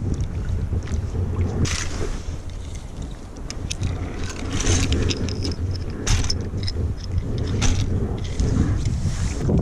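Wind buffeting the microphone, a steady low rumble, with short crackling hisses scattered throughout.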